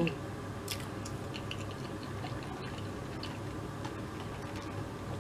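Mouth sounds of chewing a bite of fried chicken sandwich: faint, irregular small clicks and smacks over a steady low hum.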